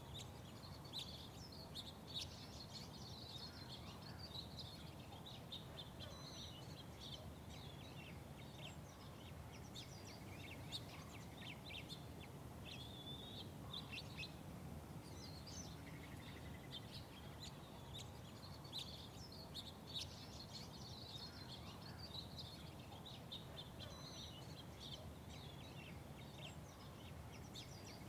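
Small birds chirping and twittering in a busy, overlapping chatter, with a short lull about halfway through, over a steady low background rumble.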